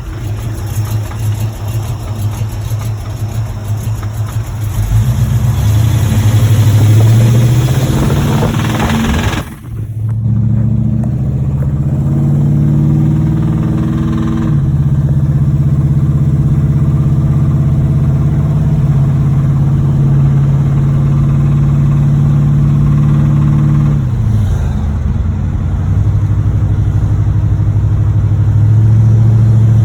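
1986 Chevrolet Monte Carlo SS's V8 engine under load while driving. The revs climb, cut out sharply for a moment about a third of the way in, climb again and then hold steady, and sag and rise once more near the end. The engine has a rod knocking in its bottom end.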